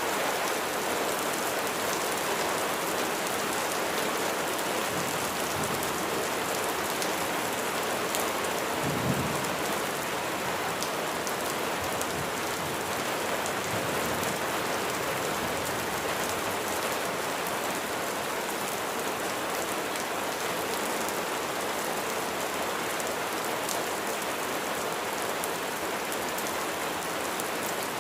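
Steady heavy rain falling, an even hiss of drops, with one brief low rumble about a third of the way in.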